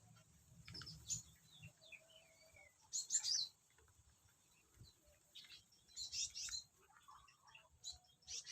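Small aviary birds chirping: short clusters of high, quick chirps every two to three seconds, with a few thin sliding calls between them.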